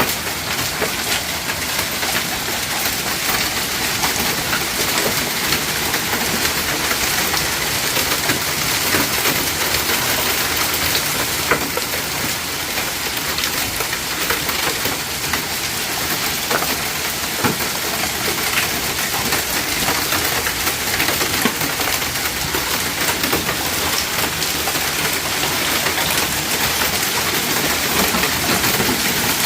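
Heavy rain pouring steadily, a dense even hiss with scattered drop hits throughout.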